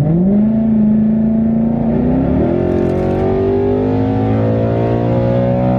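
Supercharged 5.0 Coyote V8 of a Ford Mustang GT heard from inside the cabin under hard acceleration. The revs jump up sharply at the start, shift again about two seconds in, then climb steadily.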